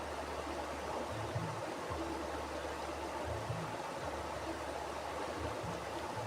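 Mountain river rushing over rocks, a steady even wash of flowing water. A low rumble underneath swells and fades every second or two.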